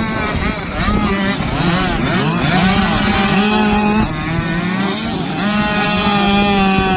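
65cc two-stroke motocross bike engine revving hard, its pitch climbing and dropping several times as it shifts gears and comes on and off the throttle.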